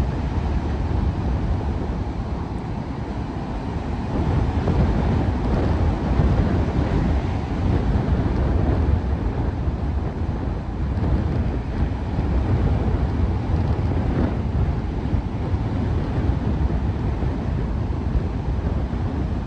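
Strong tropical-storm wind buffeting the microphone in a loud, steady rumble that swells and eases, with surf breaking on the beach beneath it.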